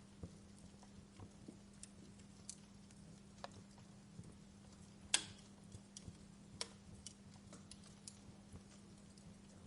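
Wood fire crackling in a fireplace: scattered sharp pops and snaps at irregular intervals, one louder pop about halfway through, over a steady low hum.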